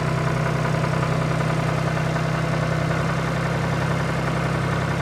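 An engine idling at a steady, even pace with a low hum that does not change.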